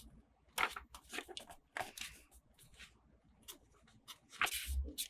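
Toy packaging being handled and torn open: irregular crinkling and tearing bursts, louder near the end with a soft thump.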